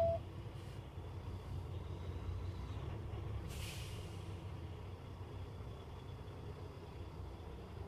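A low steady rumble in a truck cab, with one short hiss of air about three and a half seconds in.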